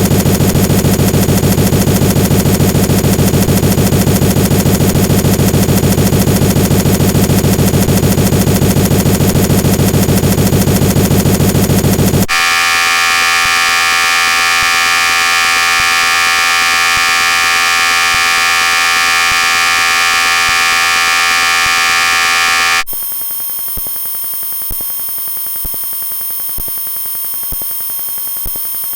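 Loud, harsh electronic buzzing made of many steady tones together. It switches abruptly to a higher-pitched buzz about 12 seconds in. About 23 seconds in it switches again to a quieter buzz with faint regular ticks.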